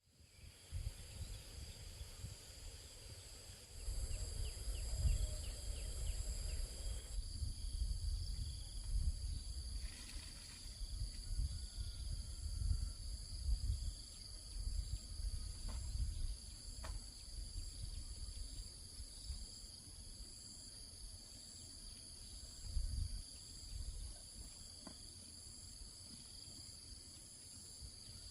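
Countryside ambience: insects, crickets among them, trilling steadily in several high pitches, with an irregular low rumble coming in about four seconds in and a few faint bird calls.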